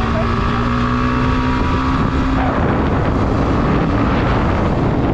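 Yamaha MT-15's single-cylinder engine running while riding, its pitch rising slightly; about halfway through the engine note drops away and wind rush on the helmet-mounted microphone takes over.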